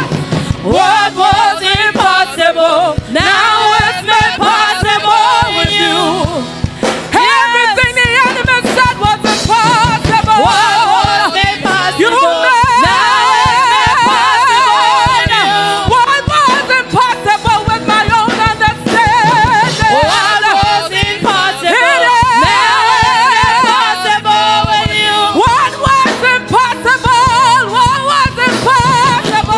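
Gospel worship song: voices singing with vibrato over musical accompaniment.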